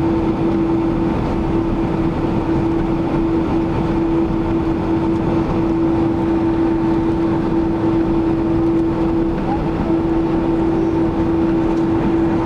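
Cabin noise inside a Boeing 767-300ER in flight: the steady rush of engines and airflow, with a constant low hum running through it.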